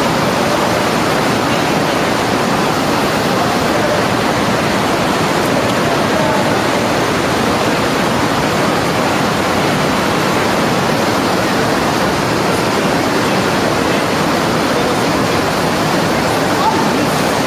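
Rushing water, a steady loud hiss.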